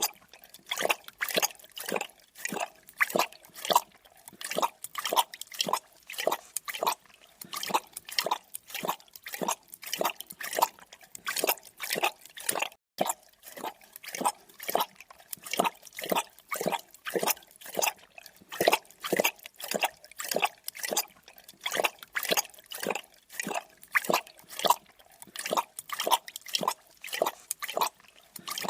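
Creature drinking sound effect: rapid wet lapping, about two to three laps a second, like an animal lapping up water.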